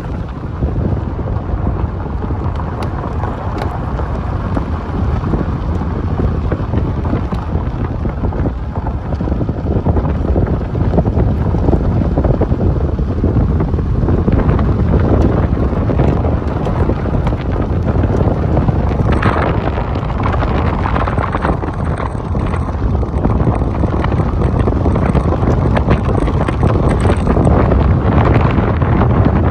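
Wind buffeting the microphone: a steady low rumble, with harsher crackling gusts from about two-thirds of the way in.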